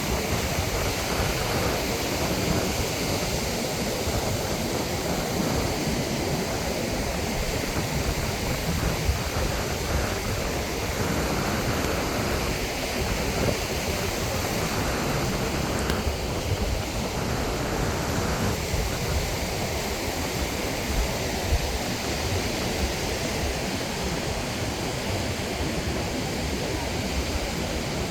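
Steady wind rushing over the microphone mixed with ocean surf, an even, unbroken noise with no distinct events.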